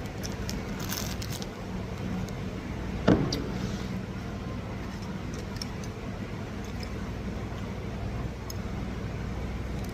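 Eating sounds over a steady low hum: a few light clicks of utensils, then one sharp loud slurp about three seconds in.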